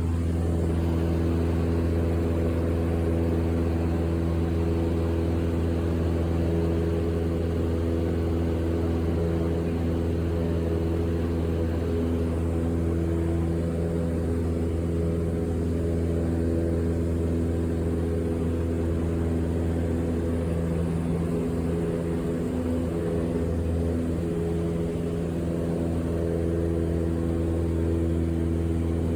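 Airplane engine drone heard inside the cabin: a steady low hum with several even tones above it, unchanging throughout.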